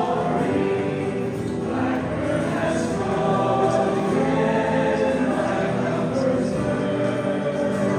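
Congregation singing a hymn together, the voices sustaining held notes with accompaniment.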